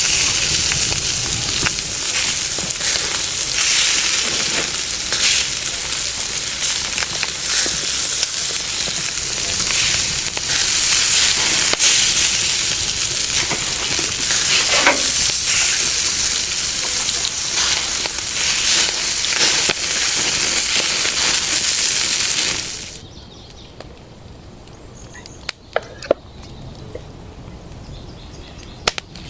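Meat frying in a hot pan over a wood fire: a loud, steady sizzle with occasional scraping clicks of stirring. After about twenty-three seconds the sizzle cuts off suddenly, leaving a quiet background with a few sharp clicks.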